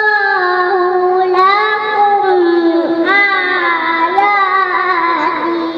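A young child's voice chanting Qur'an recitation in long melodic phrases. A held note slides down into wavering, ornamented turns and settles on a lower held note near the end.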